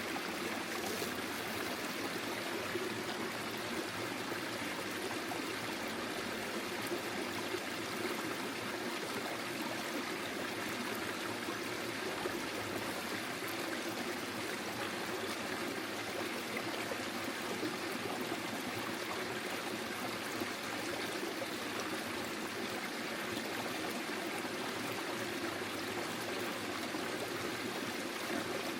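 Small forest stream flowing over stones, a steady burbling and trickling wash of water.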